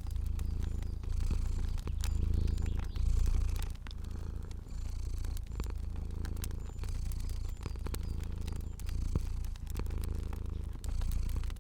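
A cat purring, the purr swelling and easing in cycles of about a second, with a fire crackling in small sharp pops throughout.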